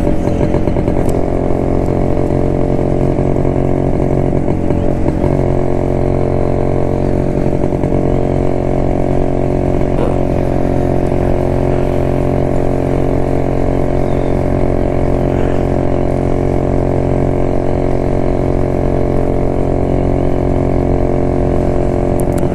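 1972 Jawa motorcycle's two-stroke engine running at a steady cruising speed, its pitch settling slightly in the first few seconds and then holding even.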